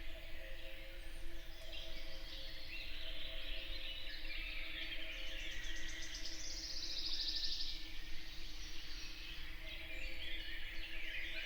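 Morning chorus of several woodland songbirds singing over one another, with a fast, high trill about halfway through. A low steady hum runs underneath.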